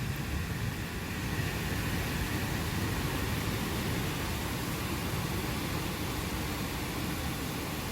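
Steady rain falling in a thunderstorm, an even hiss with a low rumble underneath, as a thunderclap dies away in the first moments.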